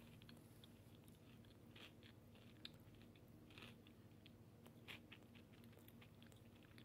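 Faint chewing: a person eating with mouth closed, with a few soft crunches scattered through, over a steady low hum.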